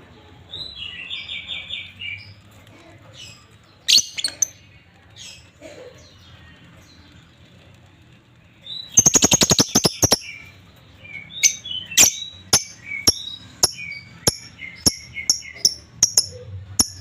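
A pair of lovebirds chirping and chattering: a short patterned chatter, a sharp call, then about 9 s in a fast run of loud notes for about a second, followed by sharp chirps about two a second.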